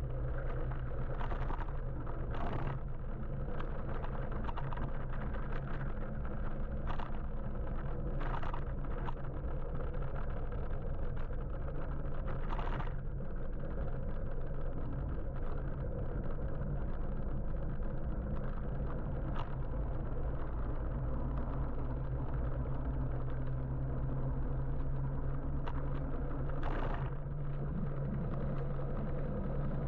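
Road traffic heard from a moving electric motorbike: a steady low hum with road and wind noise, and short clicks or rattles now and then. The hum grows a little stronger near the end.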